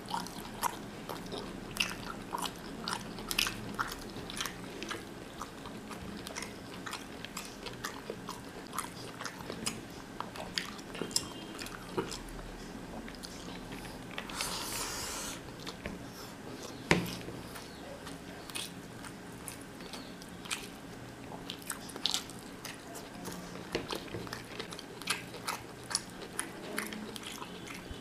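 Close-up sounds of a man eating mutton biryani with his fingers: chewing, with many short sharp mouth clicks. There is a brief hissing sound about halfway, and one loud click soon after.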